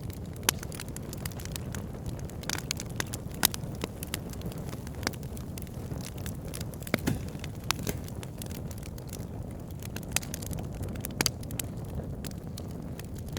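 Campfire burning: burning wood crackling and popping irregularly, over a steady low rumble. A few pops stand out louder than the rest.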